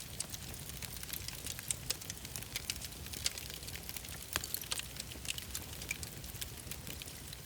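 Wood fire crackling in a fireplace: a steady low rumble with frequent irregular snaps and pops, a sharper pop about four and a half seconds in.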